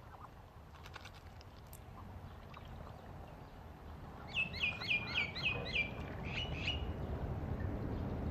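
A bird calling a quick run of about seven short chirps, a little past halfway through, over a low rumbling background noise that grows louder toward the end.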